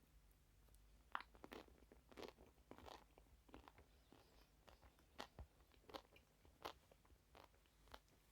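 Crunchy food being bitten and chewed close to the microphone: a run of sharp, irregular crunches starting about a second in.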